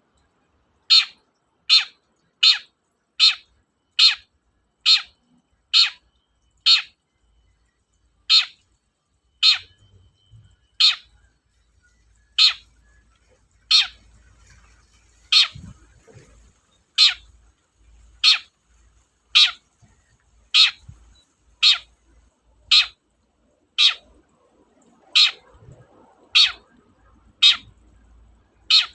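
Long-tailed shrike (cendet) giving short, harsh calls over and over, about two dozen in all. They come quickly at first, then a little more spaced out, roughly one a second.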